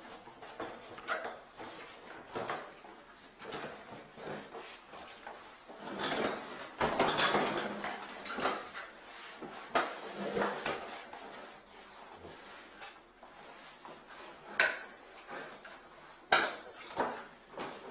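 Hard objects clinking and clattering, with scattered knocks and a louder rummaging stretch about six to eight seconds in.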